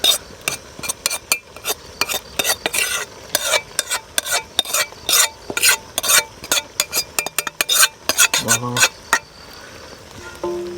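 A metal spoon or ladle stirring food in a cooking pot, with rapid irregular scrapes and clacks against the pot for about nine seconds, then stopping.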